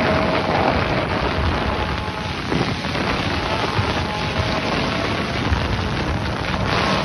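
Steady rushing wind noise on the microphone, with a faint steady tone underneath.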